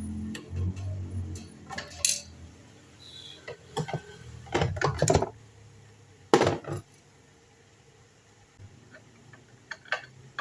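Metal parts and tools clinking and knocking on a work surface, a handful of sharp clacks with a cluster around the middle, then a few light ticks near the end, as the fan is worked on.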